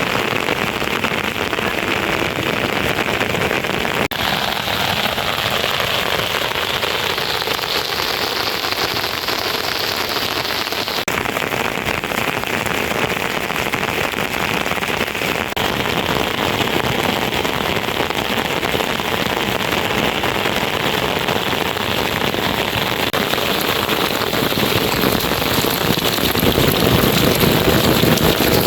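Steady rushing noise of water, with no distinct events. Its tone shifts abruptly about four seconds and eleven seconds in, and it grows slightly louder near the end.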